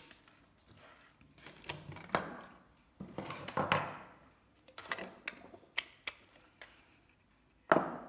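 Clicks, taps and light clattering of small tools and parts being handled on a workbench, in irregular clusters with the loudest click near the end. A steady thin high-pitched tone runs underneath.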